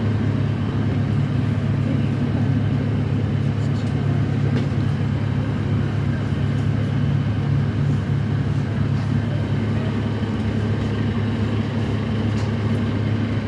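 Steady low engine drone heard from inside a moving vehicle, with an even rumble and no change in level.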